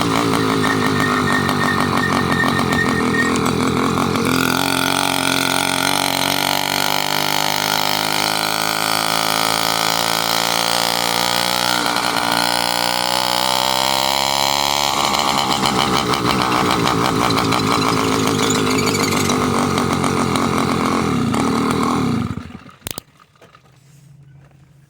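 A motorized bicycle's small engine running, its speed shifting up and down in the middle, then shutting off about 22 seconds in, followed by a single click.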